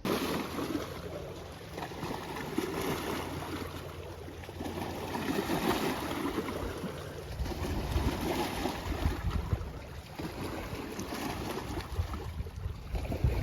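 Motorboat running over open water: an engine's low drone under rushing water and wind buffeting the microphone.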